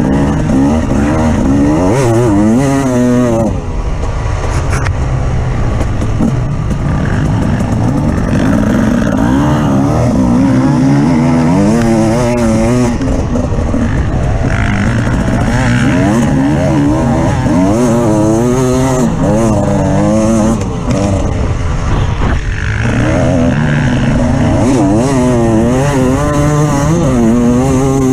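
Off-road vehicle engine running under load, its pitch rising and falling over and over as it revs up and eases off, over a steady low rumble.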